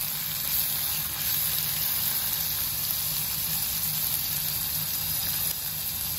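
Sliced onions and ginger-garlic paste sizzling in hot oil in a pan: a steady frying hiss, with a low hum underneath.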